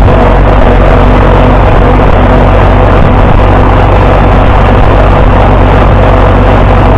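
Farmall 560 tractor engine running steadily under way, loud and constant.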